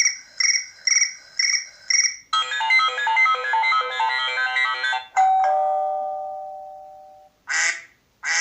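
iPhone ringtones and alert tones played one after another. First come about five quick high electronic chirps, then a fast melodic run of many notes, then a single ringing tone that fades over about two seconds. Short bursts sound near the end.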